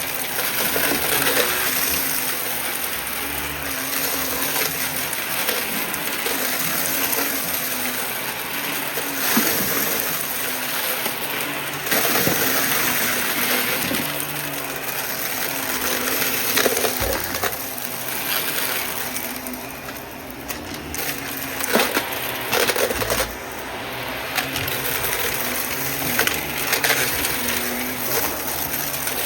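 Upright vacuum cleaner running steadily with a high motor whine, and scattered clicks and rattles as debris is sucked up.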